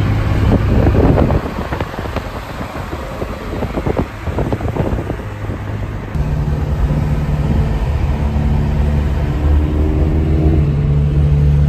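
Car engine running while driving, with a steady low drone that grows louder and steadier about six seconds in.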